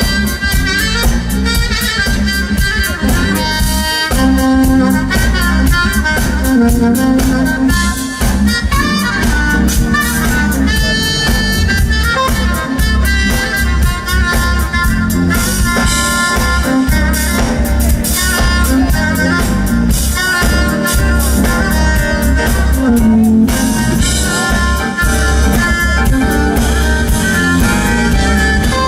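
Live smooth-jazz band playing: a saxophone lead over drum kit, bass and keyboards, loud and continuous.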